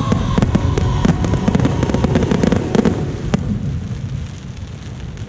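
Fireworks going off: a rapid run of sharp cracks over a dense low rumble, thinning out and fading after about three and a half seconds.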